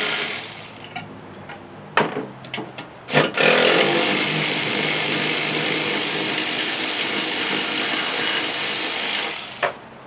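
Impact wrench running in bursts as it backs out the spindle mounting bolts from a mower deck: a run that stops within the first second, a few sharp metallic clicks, then a long run of about six seconds that cuts off, followed by a clink.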